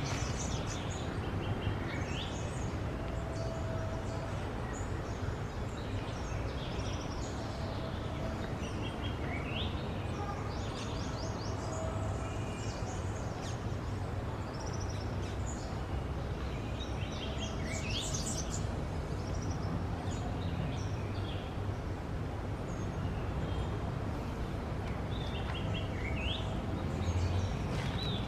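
A bird giving repeated short, sharp chirps and twittering calls, with a steady low rumble of background noise underneath.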